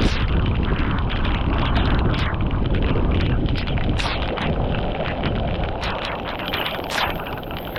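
Water rushing and churning, with wind buffeting the microphone, and scattered sharp knocks throughout.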